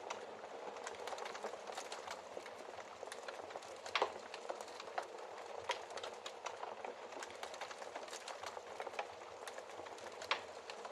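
Wood fire burning in a fireplace, with a steady crackle and scattered sharp pops, the loudest about four seconds in and again near the end.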